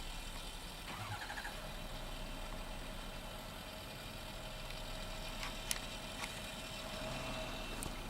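A steady mechanical hum like an idling engine, with a thin steady tone over it and two sharp clicks a little over halfway through.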